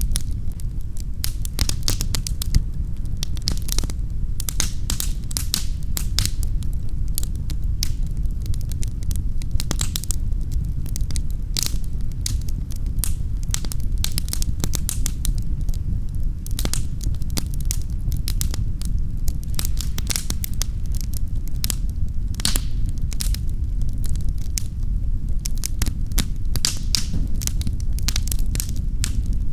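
Wood fire burning in a fireplace, crackling and popping in many sharp, irregular snaps over a steady low rumble of the flames.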